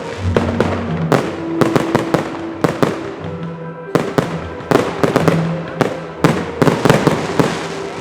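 Fireworks display: a dense run of sharp bangs and crackling reports in quick clusters, over music with held notes.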